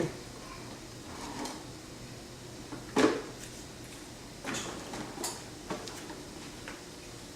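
Toy fire truck being pushed across the floor, giving a handful of separate knocks and plastic clatters, the loudest about three seconds in.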